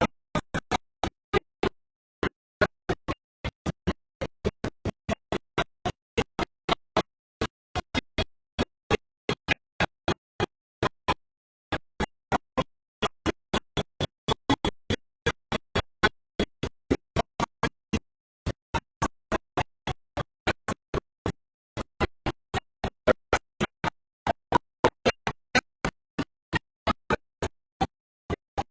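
A fast, uneven train of sharp clicks and pops, about three or four a second, with dead silence between them and a few brief pauses. This is typical of a broken or dropping-out audio signal rather than any sound from the scene.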